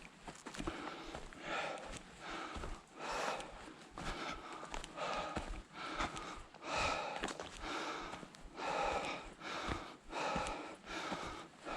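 A hiker breathing hard on a mountain trail, with a loud breath about every two seconds.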